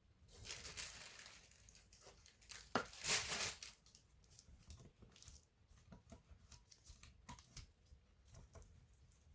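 Two bursts of rustling, tearing-like handling noise, the second louder, followed by scattered light clicks and taps.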